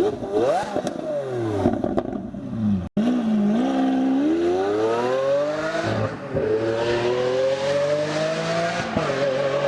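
Lamborghini Aventador S's V12 engine: a quick blip of revs rising and falling, then a long pull with the pitch climbing steadily and dropping sharply twice, as at upshifts.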